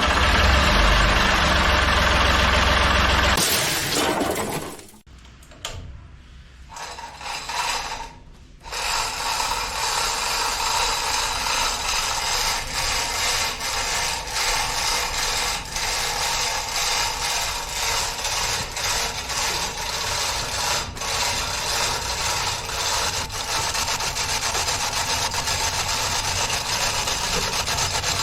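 Steady mechanical ratcheting and rubbing with fine rapid clicks, after a louder, deeper stretch in the first three seconds or so.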